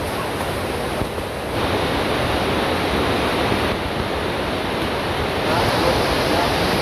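Lapopu waterfall: a steady, dense rush of falling water. It grows louder about a second and a half in and again near the end.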